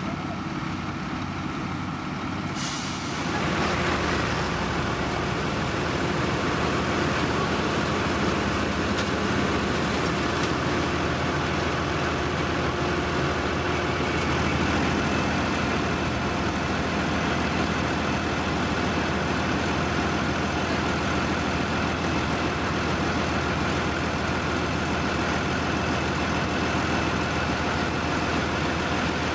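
Heavy diesel road-construction machinery running steadily, louder and fuller from about three seconds in.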